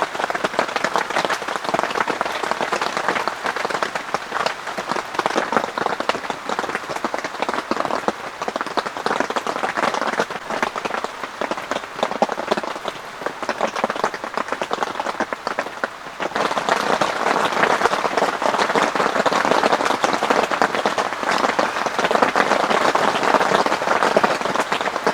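Heavy rain falling steadily, a dense hiss of countless drops, becoming suddenly louder and fuller about two-thirds of the way through.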